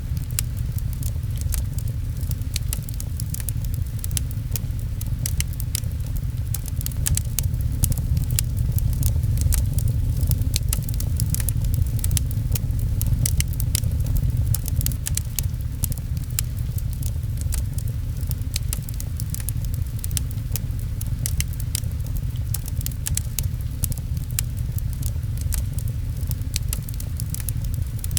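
Wood fire crackling with many small sharp pops over a steady, loud low rumble of rain.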